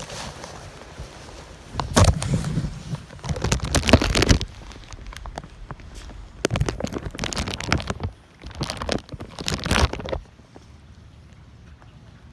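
Gusts of tropical-storm wind buffeting the microphone in three rough bursts of rumble and crackle, then easing off for the last couple of seconds.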